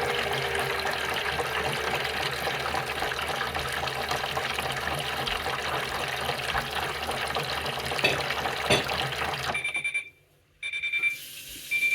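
Theo Klein toy Miele W1 washing machine on spin rinse: its small motor spinning the drum with an even low pulsing and water sloshing. It stops abruptly about ten seconds in, followed by a thin steady high tone.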